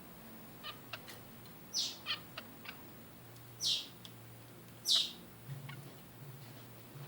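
Zebra finches calling: three louder short calls that sweep downward in pitch, with soft chirps and ticks between them.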